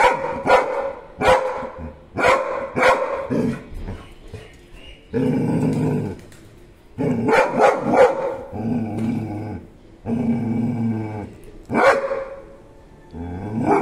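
Labrador retriever barking in sharp barks, with low, drawn-out growls of about a second each in between, alarmed at a grasshopper.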